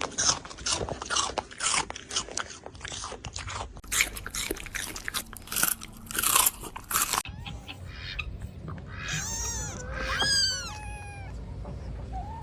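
A pet chewing and crunching on something, with rapid crunches for about seven seconds. After a sudden cut, a few short animal calls that fall in pitch.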